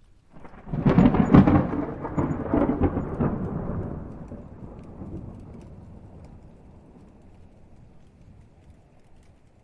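Thunderclap from a thunderstorm: a sudden crackling crash about half a second in, loudest for the next three seconds, then rumbling away and fading over several seconds.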